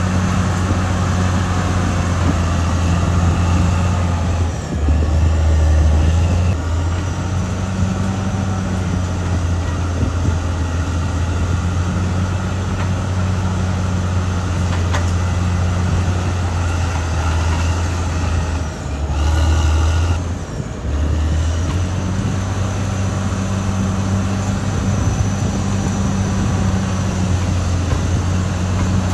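Caterpillar D6R XL bulldozer's diesel engine running steadily, with a deep, even hum. Twice, about five seconds in and again near nineteen seconds, its note drops lower and swells briefly as the load changes.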